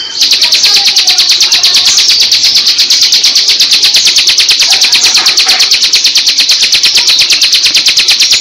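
Bar-winged prinia (ciblek) singing its 'ngebren' song: a loud, fast, even rattle of high notes that starts abruptly and keeps going without a break.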